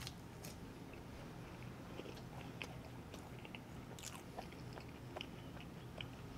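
Close-up chewing of a mouthful of chicken wing, faint, with scattered wet mouth clicks and smacks.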